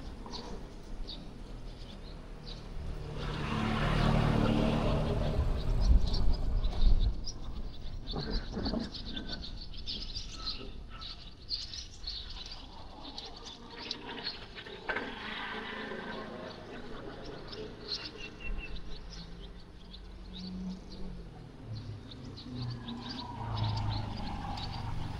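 Outdoor street ambience: small birds chirping on and off, with a vehicle passing about three to seven seconds in and another approaching near the end.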